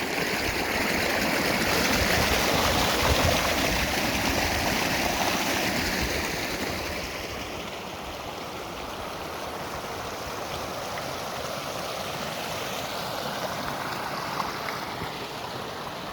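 Fresh spring water running and rushing in a stream, louder for the first several seconds and then steadier and softer.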